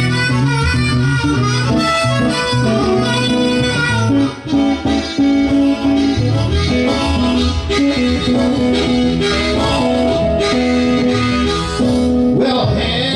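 Harmonica soloing in long, held notes over guitar accompaniment: an instrumental break in a live blues song.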